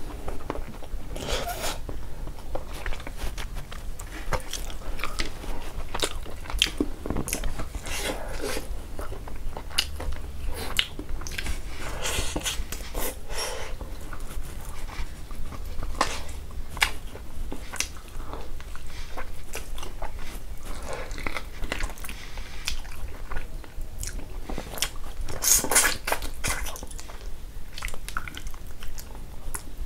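Close-miked mouth sounds of eating pork and rice by hand: chewing and biting with many irregular wet clicks and smacks, loudest near the end.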